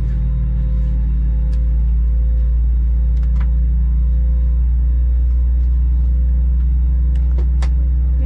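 Cabin noise inside an Airbus A321-200 taxiing: a steady low rumble with a faint constant hum from the engines and airflow, and a few light clicks and rattles.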